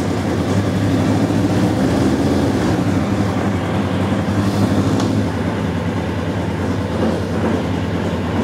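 Kawasaki ZZR1100 inline-four motorcycle engine of a race car running steadily in gear, with its clutch not releasing fully. There is a single sharp click about five seconds in.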